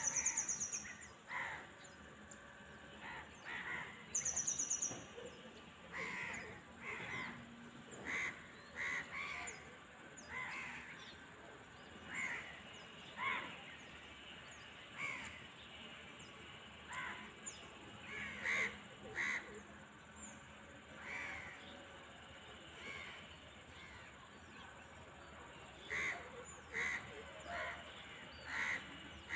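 Birds calling repeatedly in short calls, often a second or less apart, with two brief high rapid trills, one at the start and one about four seconds in.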